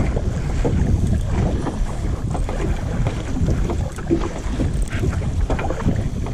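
Wind rumbling on the microphone, with water splashing and lapping around a kayak in short irregular bursts.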